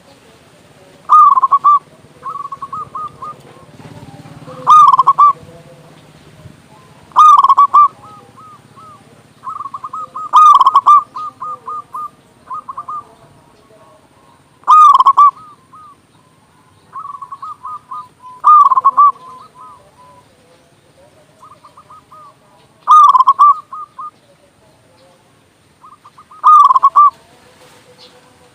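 Zebra dove (perkutut) cooing loudly: a strong coo phrase about every three to four seconds, with softer runs of quick stuttering coo notes between them.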